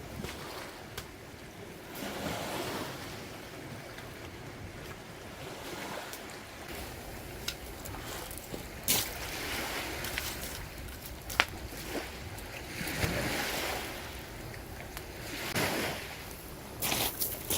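Sea waves washing onto a beach, swelling and ebbing every few seconds, with a few sharp clicks over them.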